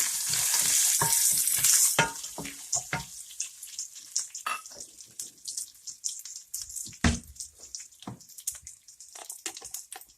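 A tempering of peanuts, curry leaves and green chilies in hot coconut oil sizzles loudly for about the first two seconds after turmeric is added. Then come scattered taps and scrapes of a spoon stirring in the pan.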